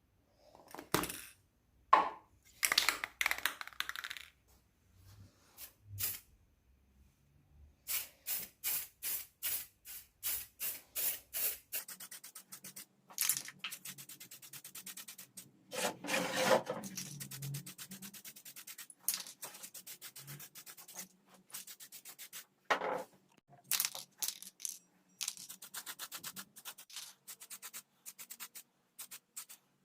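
Rhythmic hand rubbing strokes on a workpiece, as in sanding or scrubbing a part clean. A few separate knocks come first. From about eight seconds in the strokes run at about four a second, and from about twelve seconds they turn faster and denser.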